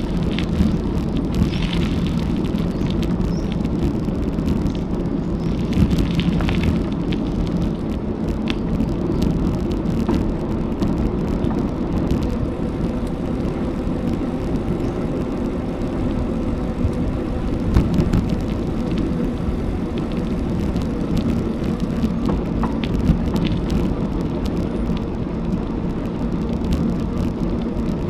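Bicycle riding along a road: a steady low rumble of wind on the microphone and tyre noise, with scattered light clicks and rattles.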